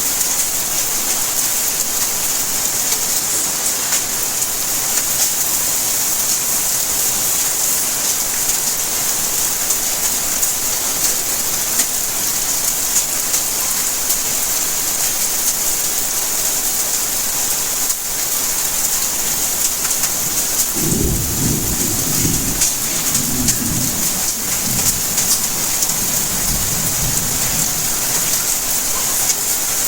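Steady rain falling, a dense even hiss throughout. About two-thirds of the way through, a low roll of thunder rumbles for several seconds in a few waves.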